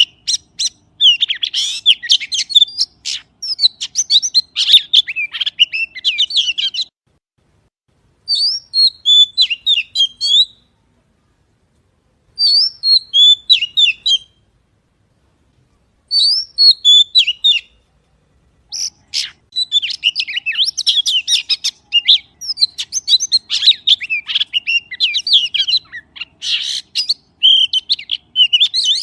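Magpie calling in fast, dense runs of chirps and warbled notes, broken by several silent pauses of a second or two through the middle.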